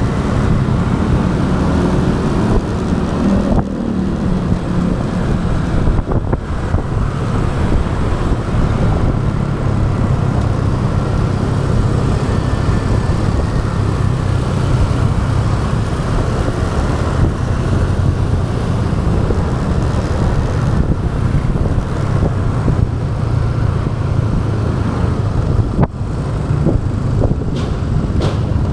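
Motorbike engine running steadily at riding speed, with road and traffic noise around it.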